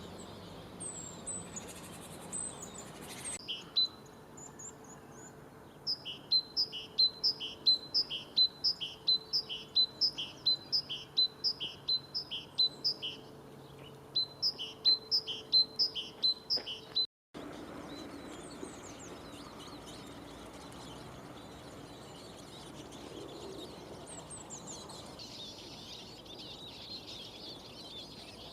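Eurasian nuthatch calling a loud series of evenly repeated whistled notes, about two to three a second, in two long runs. Before it there are a few thin high calls. After a cut, Eurasian siskins twitter more faintly, the twittering growing denser near the end.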